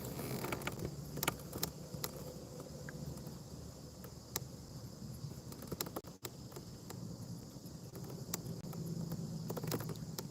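Quiet outdoor ambience with a faint steady insect buzz and scattered light clicks and taps from fishing gear handled in a kayak.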